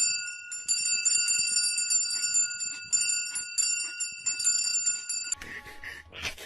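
Bells jingling and ringing with rapid tinkling for about five seconds, cutting off abruptly; a short noisy sound follows near the end.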